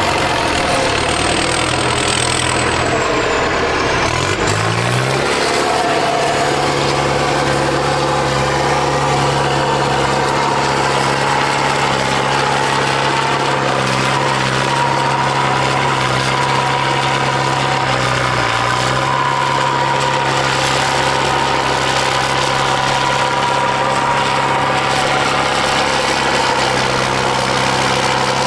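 Tractor diesel engine revving up about four seconds in, then held at steady high revs, dipping briefly once near the end of the first two-thirds.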